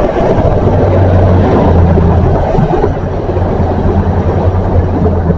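Diesel-hauled freight train passing close by: a loud, steady low engine drone over the rumble of the wagons' wheels on the rails.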